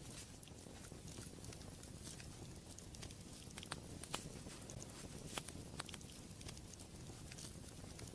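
Wood fire burning in a fireplace, with a steady low rumble and hiss and frequent irregular sharp crackles and pops, a few louder pops near the middle.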